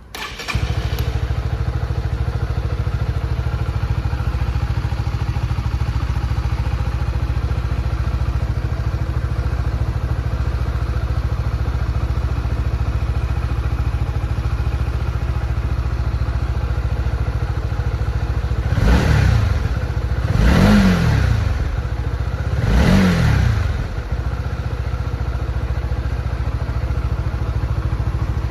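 Honda CB125R's 125cc single-cylinder engine starting right at the beginning and settling into a steady idle. About two-thirds of the way through it is blipped three times, each rev rising and falling back to idle.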